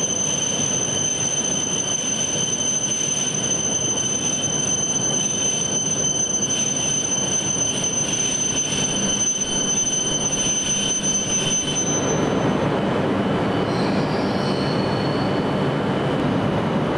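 E5-series Shinkansen train pulling slowly into the platform and coming almost to a stop: a steady rushing rumble with thin high-pitched whine tones over it. The highest whine cuts off about twelve seconds in, and the rumble grows a little stronger near the end.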